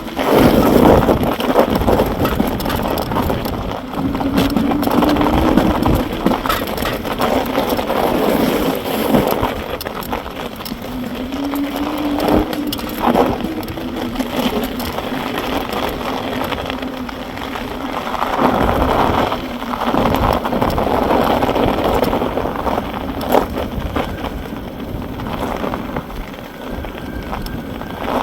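Electric bike on the move: steady rumbling ride and wind noise on the microphone, with knocks and rattles and a faint whine that rises a little now and then.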